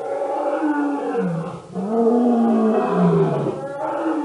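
Dinosaur roar sound effect: two long roars, each sliding down in pitch, with a third roar starting near the end.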